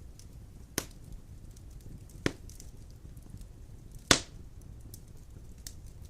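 Large logs burning in a stone fireplace: a steady low flame rumble with faint crackles, and three sharp wood pops about a second, two seconds and four seconds in, the last the loudest.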